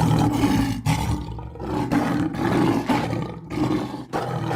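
Lion roaring repeatedly, a string of low, rough roars with short breaks about every second between them.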